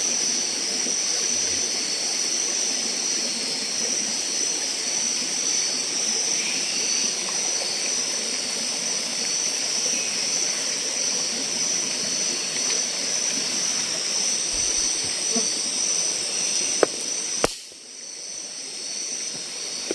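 Steady forest ambience: a constant high-pitched insect drone over an even rushing hiss. About three seconds before the end it cuts off sharply, leaving a quieter background.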